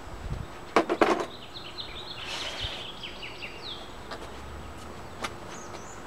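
A few sharp knocks about a second in. They are followed by a bird singing a quick run of high, descending chirps for about two seconds, with one more short chirp near the end.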